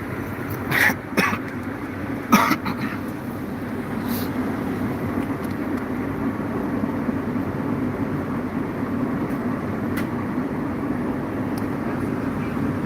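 Steady car running noise, engine and tyres, heard from inside the moving car, with a few short sharp sounds in the first few seconds.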